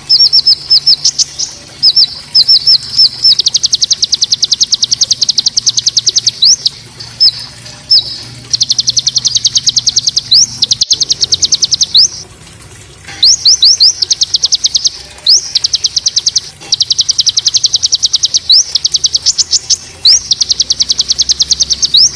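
Small songbird giving harsh, rapid 'tembakan' trills, loud and high-pitched at about a dozen notes a second, in bursts of a few seconds broken by short pauses and sharp sweeping single notes. This is the kind of call used as a tutor recording to train caged songbirds such as the white-rumped shama.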